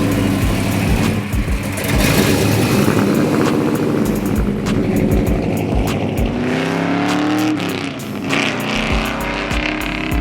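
A classic muscle car's engine running and revving, its pitch climbing on the revs in the second half.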